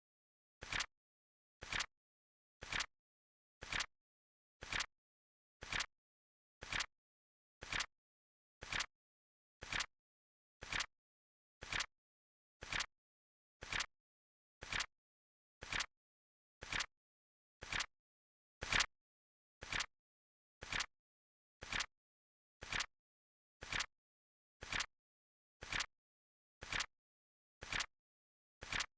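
Clock tick sound effect of a flip clock timer: sharp ticks at an even one per second, with dead silence between them. One tick, about two-thirds of the way through, is a little louder than the rest.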